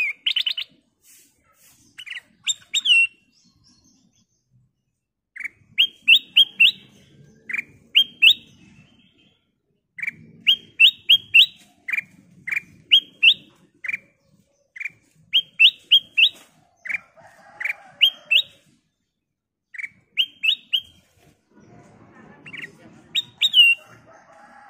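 Kutilang emas (black-crested bulbul) singing: short phrases of three or four quick, rising whistled notes, repeated every second or two, with a faint low rumble under some phrases.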